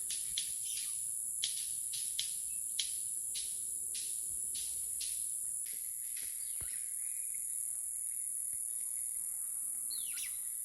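White-collared manakin snapping its wings in courtship display: a series of sharp, firecracker-like snaps, about two a second, that stop a little over halfway through. A steady high-pitched insect buzz runs underneath, and a short bird call comes near the end.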